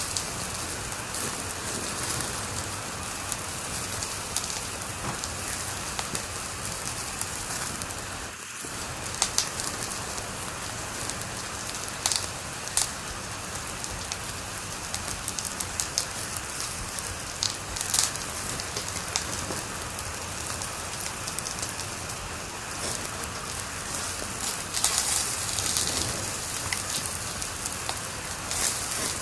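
Wood fire in a fireplace crackling: a steady hiss with sharp pops every few seconds.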